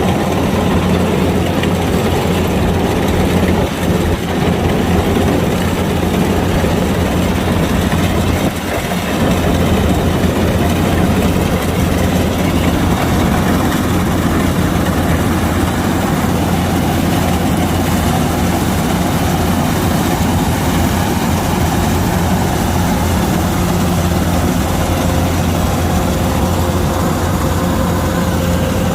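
Kubota DC-105X combine harvester running steadily, its diesel engine giving a constant low hum with the machine's working noise.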